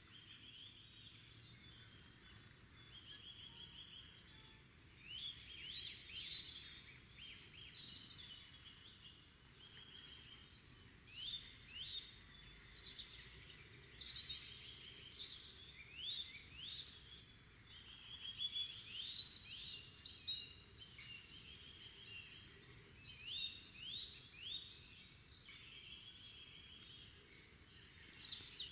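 Several songbirds singing together in a spring-morning chorus: repeated quick down-slurred notes and trills, busiest and loudest a little past the middle, over a faint steady outdoor background hiss.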